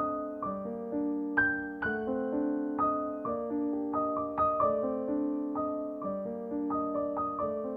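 Background music: a gentle piano melody with chords, notes struck one after another and left to ring.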